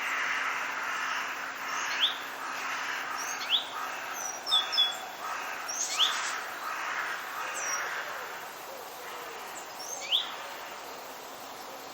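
Forest birds chirping: a handful of short, sharply rising calls, with a quick cluster of higher notes a little before the middle, over the steady rush of a forest stream that eases toward the end.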